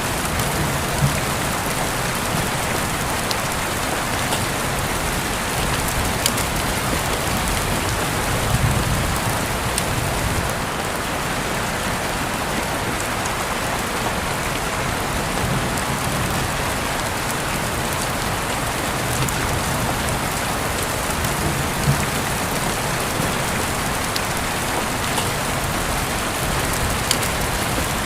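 Steady rain falling, an even hiss of rain with scattered individual drops ticking sharply on a surface.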